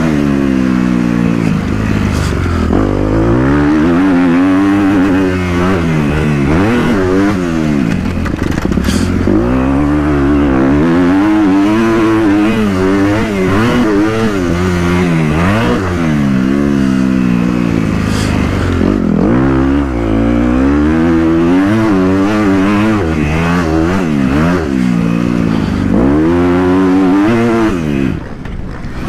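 Dirt bike engine revving up and falling back again and again as it is ridden around a motocross track. The pitch climbs and drops every couple of seconds, and the engine dips in loudness about a second before the end.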